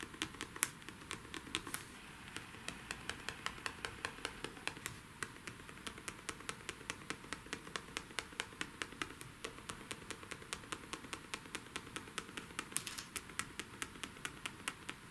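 Glue pen tip tapping on card: many light, quick taps at about four a second as glue is dotted on.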